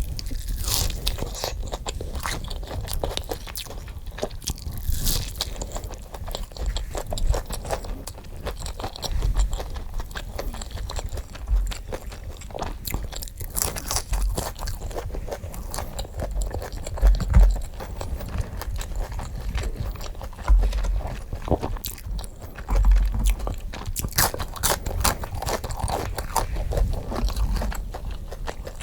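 A person eating close to the microphone, biting into and chewing crunchy food with continual crunching and chewing sounds.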